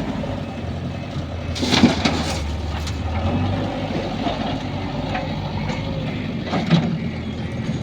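JCB backhoe loader's diesel engine running steadily, with two sharp clanks: one about two seconds in and one near the end.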